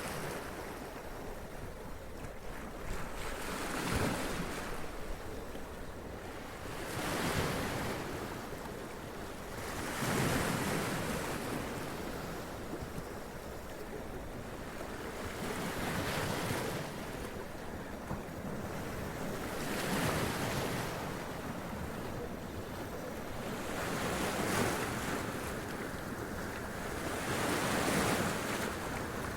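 Sea waves washing up onto rocks, each surge swelling and splashing then draining back, about every three to four seconds over a steady wash of surf.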